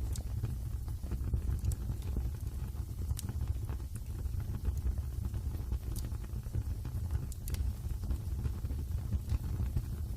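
Wood fire burning in a fireplace: a steady low rumble with scattered sharp crackles and pops, the clearest about three, six and seven and a half seconds in.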